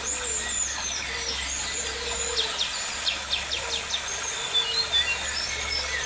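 Several birds chirping and calling, with rapid trills and short high whistles overlapping throughout.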